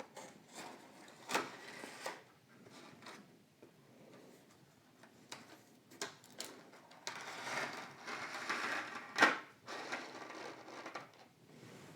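Packaging being handled and opened by hand: scattered light clicks and knocks, with a few seconds of rustling in the second half.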